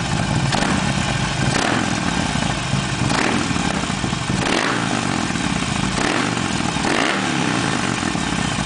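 Harley-Davidson Sportster 48's 1200 cc air-cooled V-twin idling through a Torque Hammer full exhaust with no dB killer, blipped on the throttle about six times. The exhaust note is deep and dark.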